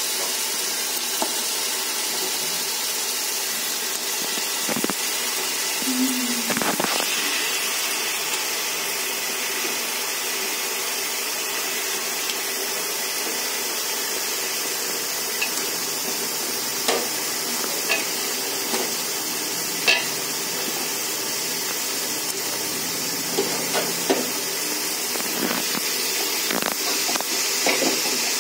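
Masala gravy sizzling steadily in oil in a pot as raw chicken pieces are added, with occasional short knocks and plops from the pieces and the slotted spoon, more of them in the second half.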